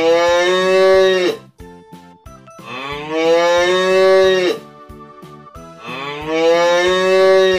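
A cow mooing: three long moos a couple of seconds apart, each rising in pitch at the start, holding and then dropping off at the end.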